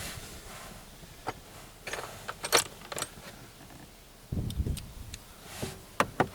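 Hand tools and small metal parts clicking and clinking during work under a car's dashboard, in scattered sharp ticks. There is a dull low bump about four seconds in.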